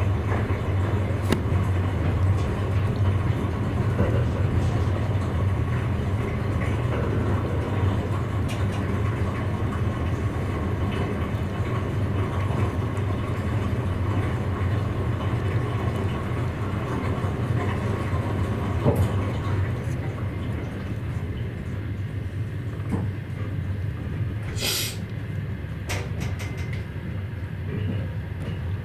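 Steady low rumble of a passenger train car's wheels and running gear, heard from inside the car as it rolls slowly into a station, easing off in the last third as the train slows. Near the end there is a short sharp hiss and then a few clicks.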